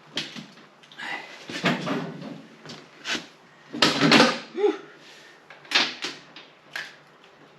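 A series of about six heavy knocks and clunks, with scraping between them, as a KTM 690 Duke engine is manhandled and bumped into the motorcycle frame.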